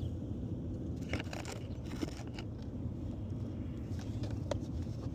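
Scattered small clicks and scrapes of an inspection camera and its push rod being handled and fitted, over a steady low rumble.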